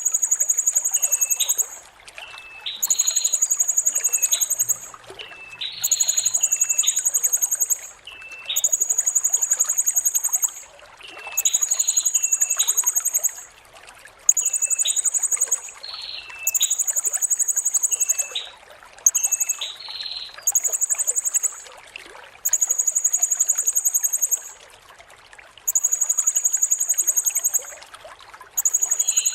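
Blue-crowned hanging parrot (serindit) singing: a series of very high, shrill trilled phrases, each one to two seconds long with short gaps, mixed with short lower chirps. A steady trickling-water hiss runs underneath.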